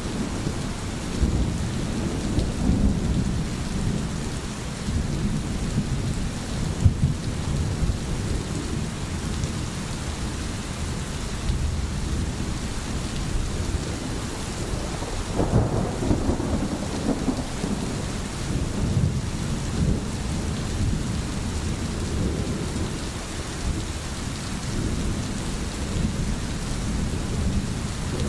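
Steady rain with low rolling rumbles of thunder underneath. The strongest rumble swells up about halfway through.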